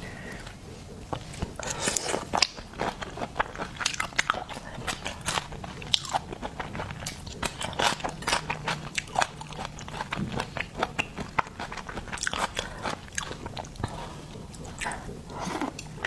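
Close-miked eating of seafood: crunchy bites and chewing, a dense run of sharp crackling clicks that keeps going with short pauses.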